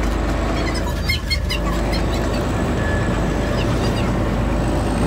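Nilgiri Mountain Railway toy train running, heard from an open coach window: a steady rumble of the moving train with wind on the microphone. A few short high chirps sound about a second in and again near the end.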